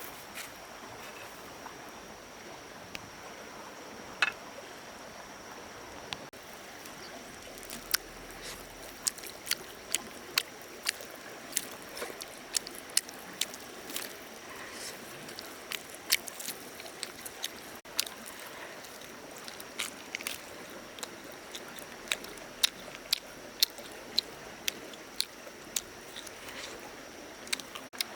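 Steady rush like running water, with a thin high steady tone over it. From about eight seconds in come many sharp clicks and taps, irregular and at times several a second.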